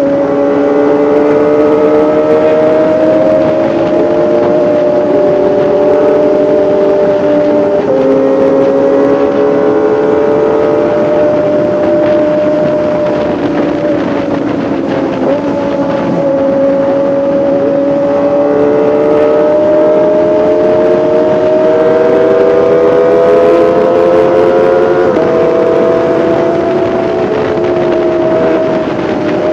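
Kawasaki ZX-25R's 249 cc inline-four engine and exhaust running at high revs. The pitch drifts slowly up and down, with a sudden drop about eight seconds in and a sudden rise near the end.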